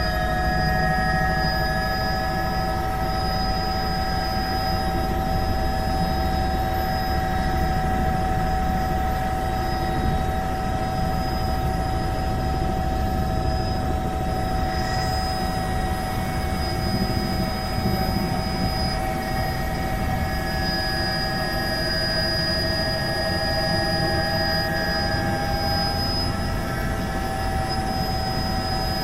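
Helicopter in flight: a steady low rotor and engine rumble under a constant high whine, unchanging throughout.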